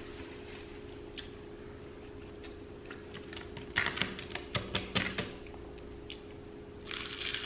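Crisp, crackling clicks at close range from eating and handling fried fast food: a quick run of about a dozen sharp clicks in the middle and a brief rustle near the end, over a steady low hum.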